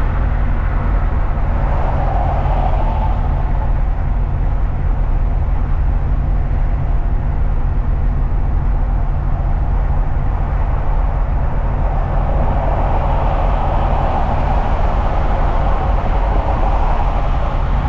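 Steady engine and road noise inside a truck's cab while driving: a deep rumble with a tyre hiss that swells about two seconds in and again near the end.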